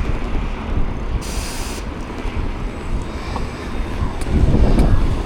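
Wind buffeting the microphone and road and traffic rumble while riding an e-bike through city streets, with a short hiss about a second in and a louder swell near the end.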